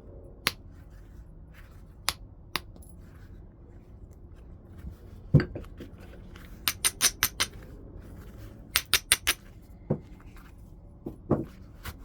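Flintknapping: sharp clicks of a knapping tool striking stone, some single and some in quick runs of four or five. About five seconds in comes one heavier, deeper strike, the loudest sound.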